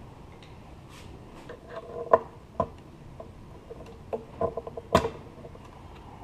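Scattered clicks and light knocks of hand tools and small metal parts, a few with a short ring, as a fuel line is worked off a small motorcycle's carburetor. The loudest knocks come about two seconds in and again later, with a quick run of small clicks between them.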